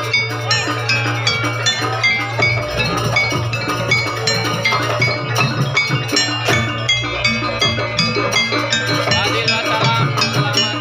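Live music dense with quick, bell-like metallic tuned percussion and drums, over a steady low hum.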